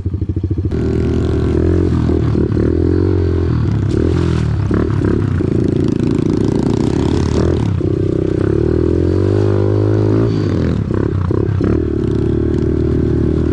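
Off-road vehicle engine running close by, its engine speed rising and falling several times with the throttle.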